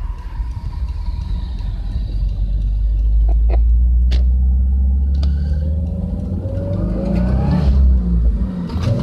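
Subaru Legacy's engine and exhaust running with a deep, steady rumble, a few sharp clicks in the middle, and a pitched note that rises from about two-thirds of the way in as the revs build.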